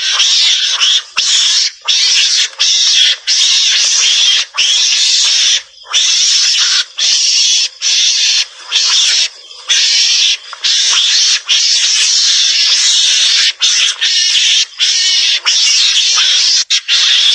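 Javan mongoose (garangan) calling: a harsh, hissing chatter in runs of a second or so, broken by short gaps. A recorded call of the kind played to lure mongooses out.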